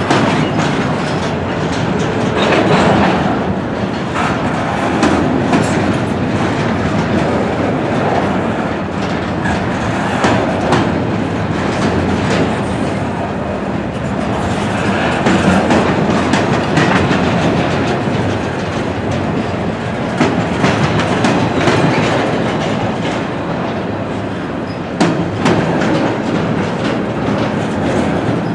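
Double-stack intermodal freight train's container well cars rolling past close by: a steady, loud rumble of steel wheels on rail with repeated clickety-clack of wheels crossing rail joints and rattling cars.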